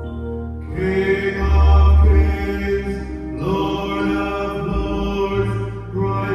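A man singing long, drawn-out notes of a slow worship song over sustained keyboard chords and deep held bass notes.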